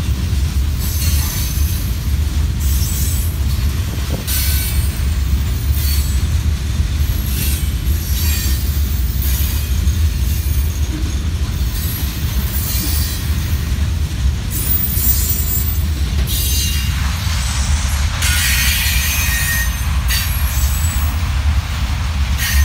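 Freight train tank cars rolling past close by: a steady low rumble of wheels on the rails, with high-pitched wheel squeal and hiss coming and going every second or two, strongest after about 17 seconds.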